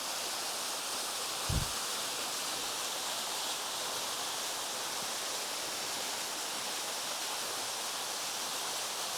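Waterfall rushing, a steady even roar of falling water. There is one brief low thump about a second and a half in.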